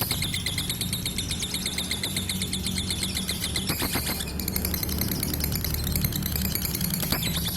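Lovebird singing a long, rapid, high chattering trill, with a steady low hum underneath.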